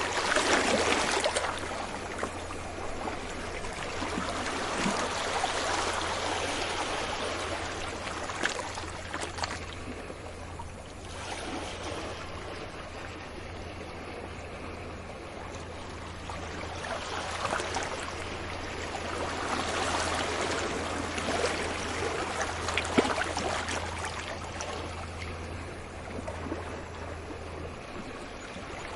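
Sea waves breaking on a beach and washing back, a steady wash of surf that swells and eases several times.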